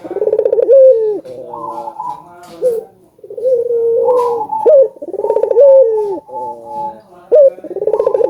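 Barbary doves cooing, repeating their rolling coo phrase about three times, each with a fast pulsing trill in the middle and a falling end. A second, higher-pitched dove calls in between.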